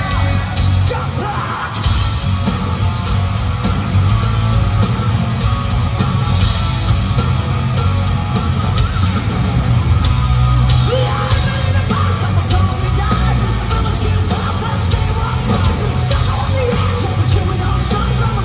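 Hard rock band playing loud live through a concert PA: distorted electric guitars over heavy bass and drums, with a singer's voice shouting and singing over it.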